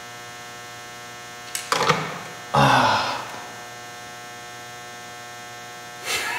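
A steady buzzing hum with many even overtones and no change in pitch. It is broken by loud rough noise bursts about two and three seconds in, and again near the end.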